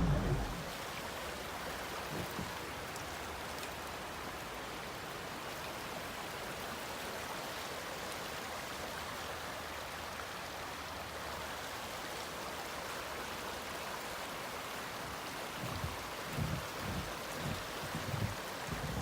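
Steady rush of water falling at a partly frozen waterfall, with a few low muffled bumps near the end.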